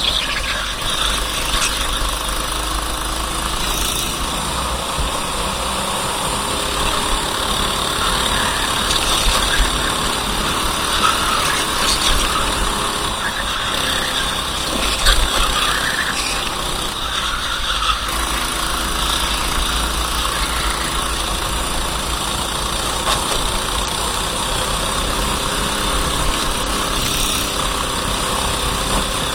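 A racing kart's engine running steadily, under a constant hiss.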